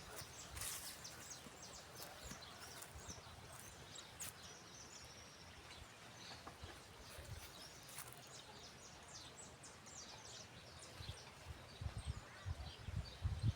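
Faint outdoor ambience, with scattered short high-pitched chirps and ticks throughout.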